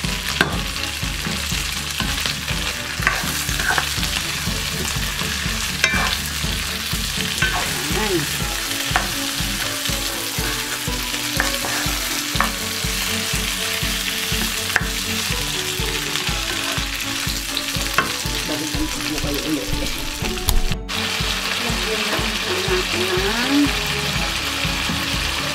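Chicken pieces and onions frying in a nonstick wok, a steady sizzle with scattered clicks and scrapes of the spatula against the pan as they are stirred to brown.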